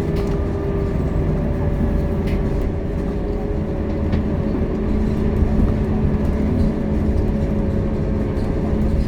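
Scania K230UB single-deck city bus under way: engine and drivetrain running steadily under heavy road rumble, with a steady whine and a few light clicks and rattles.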